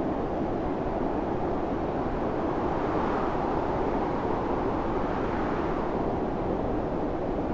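Snowstorm wind blowing steadily, swelling a little about three seconds in and easing again.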